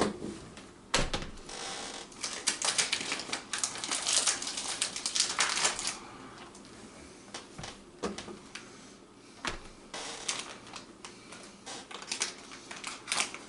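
Plastic hot dog package crinkling and clicking as it is handled and opened, in irregular bursts.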